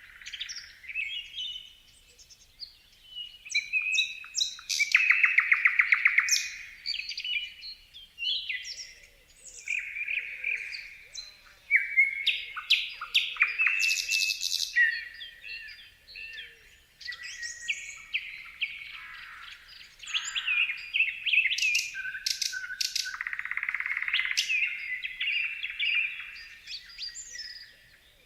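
Several songbirds chirping and singing: a busy mix of short whistled notes and calls, with fast rattling trills about five seconds in and again near twenty-three seconds.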